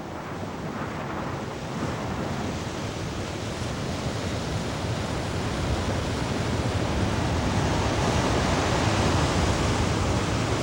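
Strong wind blowing over an exposed seabird colony, a steady rushing noise that grows gradually louder.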